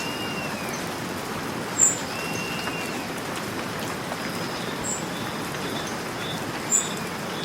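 Steady rain falling, with birds calling over it: a few arching whistled notes and a run of short notes in the second half, plus sharp high chirps, the loudest about two seconds and seven seconds in.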